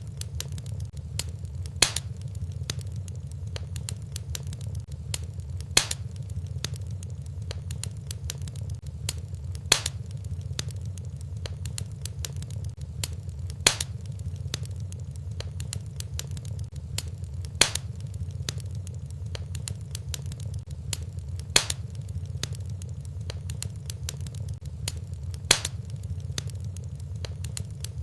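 Wood fire in a fireplace crackling over a steady low rumble, with a louder sharp pop at even spacing about every four seconds.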